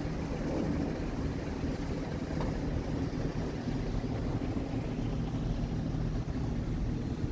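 Scania P truck's diesel engine running steadily with a low, even drone.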